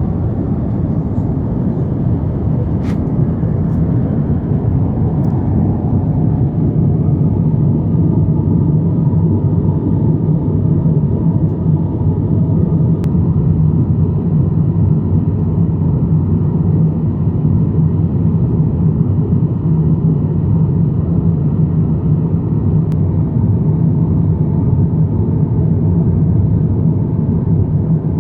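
Airbus A350-900 cabin noise in flight: a steady, loud, low drone of the engines and the air rushing past the fuselage, with a few faint clicks.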